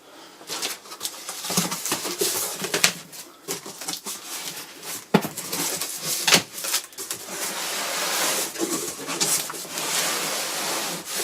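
Cardboard box and packaging being handled and opened: irregular rustling and scraping with a few sharp knocks.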